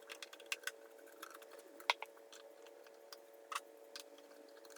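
Faint, scattered clicks and light taps of hand work on an old mini fridge during disassembly, the loudest a little under two seconds in, over a faint steady hum.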